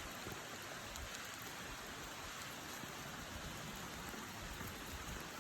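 Light rain falling steadily, an even patter with faint scattered ticks of single drops.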